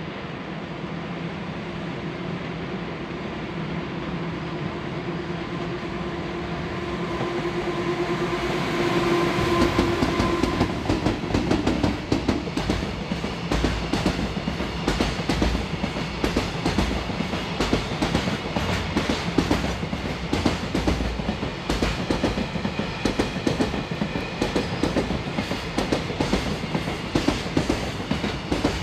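JR Freight freight train hauled up a steep grade by an EF200 electric locomotive: a steady electric hum swells for the first several seconds. Then, from about nine seconds in, container wagons roll past with a rapid, continuous clickety-clack of wheels over rail joints.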